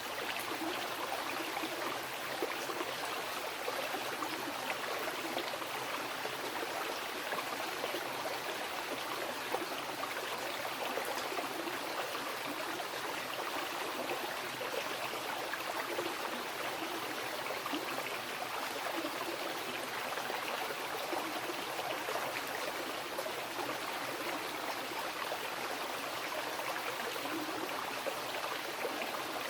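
Mountain river rushing and burbling over rocks, a steady even flow of water with no change.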